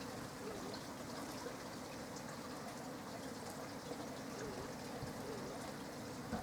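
Steady rain falling, with water trickling and running off, and a single brief click at the very end.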